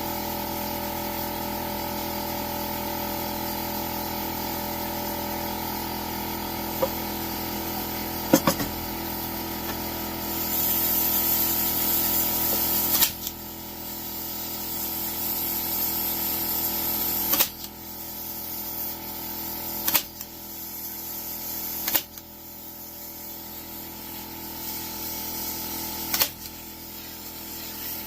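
Staple gun tacking folded material in place: about six sharp clicks a few seconds apart over a steady machine hum.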